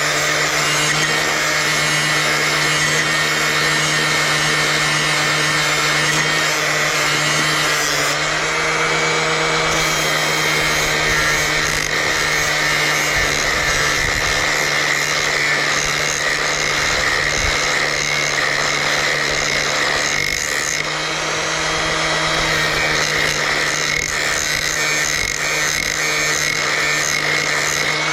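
Angle grinder with a flap disc running steadily at speed, grinding lightly along the edge of a pair of garden shears to sharpen them.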